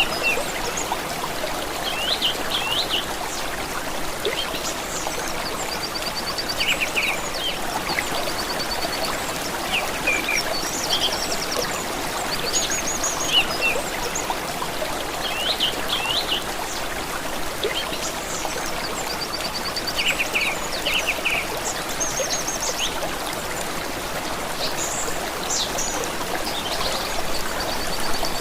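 A stream trickling steadily, with songbirds calling now and then above it: short chirps and quick high trills every few seconds.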